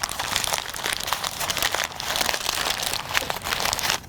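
Brown paper bag crinkling as it is rolled down and folded over on itself, a continuous run of small crackles with a short lull about halfway through.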